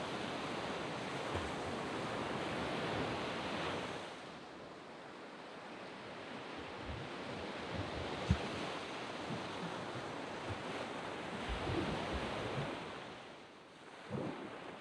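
Waves washing up a sand beach and drawing back. One wash fades about four seconds in, and another builds up and falls away near the end.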